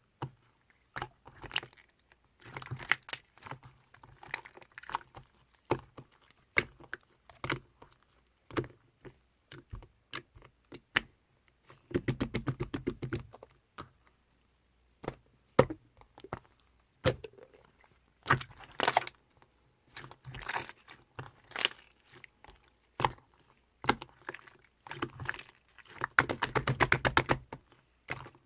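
Chewy, bouncy clear slime being squeezed, poked and stretched by hand, giving sharp sticky clicks and pops. Twice, about twelve seconds in and near the end, the clicks come in a fast crackling run as air pockets in the slime are pressed out.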